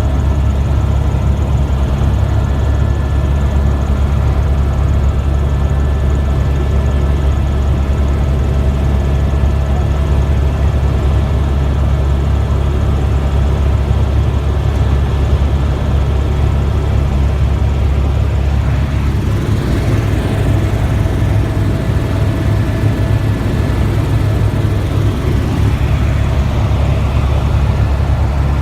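Helicopter in flight heard from inside the cabin: a loud, steady low drone of rotor and engine with a few thin steady whining tones over it. About two-thirds of the way through, the low drone shifts in pitch.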